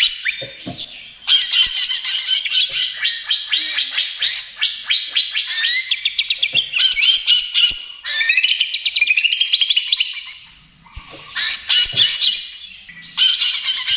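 Green leafbird (cucak ijo) singing a fast, chattering song of rapid rattling trills and high notes, in phrases with short breaks between them.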